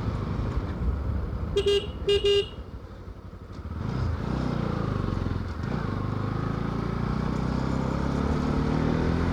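Motorcycle engine running on the move, with two short horn beeps about one and a half seconds in. The engine then eases off briefly and picks up again with a rising pitch before running steadily.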